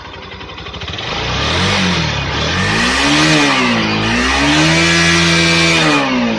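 Bajaj Pulsar AS200's single-cylinder engine, heard through its exhaust, revved up from idle. It eases off briefly about four seconds in, then is held high for about a second and a half before dropping back toward idle near the end.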